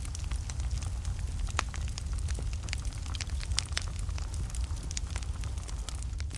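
Wood fire burning in a fireplace, with frequent sharp, irregular crackles and pops over a steady low rumble of the flames.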